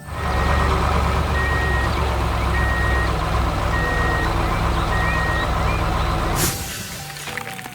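Heavy construction machine's diesel engine running with a reversing alarm beeping five times, about once every 1.2 seconds; the machine sound cuts off suddenly near the end.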